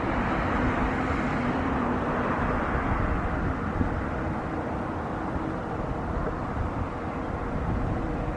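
Jet airliner engines running: a steady rush with a low hum that wavers slightly in pitch.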